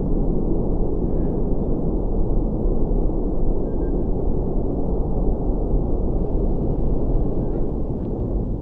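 Raptor rocket engines firing, heard from afar as a steady deep rumble that eases slightly near the end.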